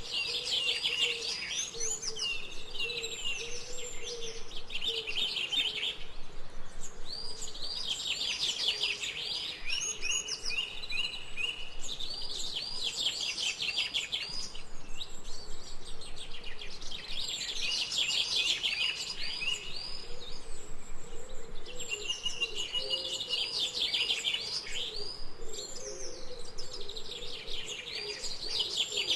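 Songbirds chirping and singing, in fast runs of high chirps that come in bursts every few seconds, with a lower wavering call running underneath.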